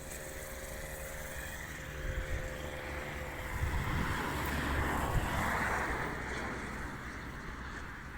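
A motor vehicle passing, its noise swelling to a peak about five seconds in and then fading, with some low wind rumble on the microphone.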